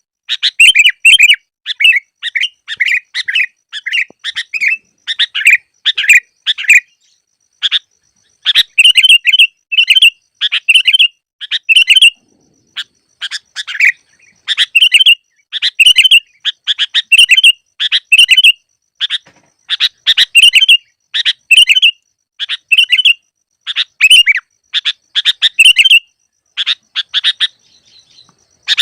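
Sooty-headed bulbul (kutilang) singing loudly: short, bubbly chirping phrases repeated about once a second, with brief pauses twice early on. It is the busy song used as a master recording to lure wild bulbuls.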